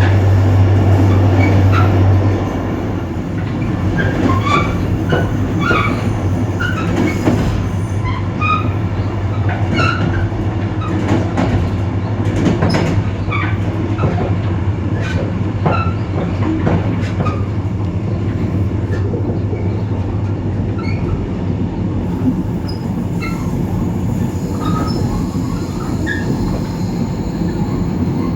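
EMD GT26CW-2 diesel locomotive under way: its two-stroke V16 engine's low drone eases off about two seconds in, under steady running noise. Short high wheel squeals and rail clicks come through again and again.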